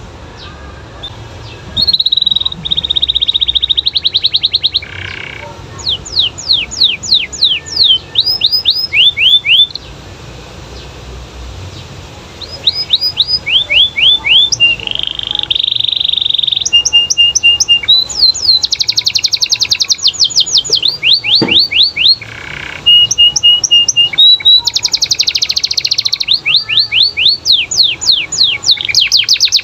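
Domestic canary in full, loud song: fast trills of repeated falling notes alternating with held whistled tones and buzzy rolls. The song breaks off briefly twice.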